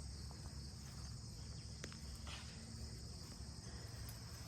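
Steady high chirring of insects in an even, unbroken band, over a faint low rumble.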